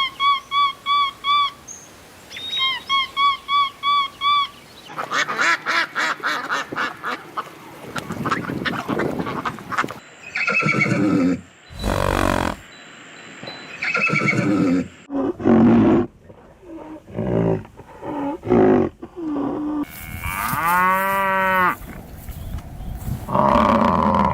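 A string of different animal calls, one short clip after another: a run of quick repeated high chirps at first, then a range of pitched calls and cries, among them one long call that rises and falls in pitch.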